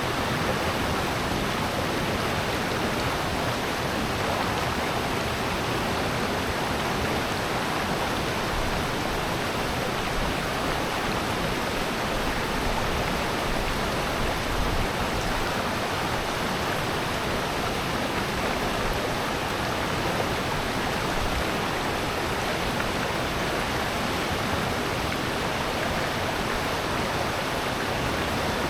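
Mountain stream and waterfall rushing steadily in a rocky gorge, an even unbroken wash of water noise.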